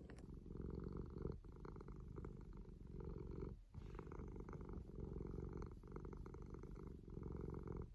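Domestic cat purring steadily and close by, with a brief break every two seconds or so as it breathes in.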